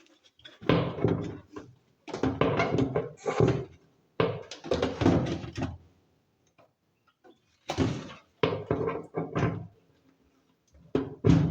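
A plastic washing-machine cover being fitted back into place: clattering knocks and rattles in four or five bursts of a second or two each.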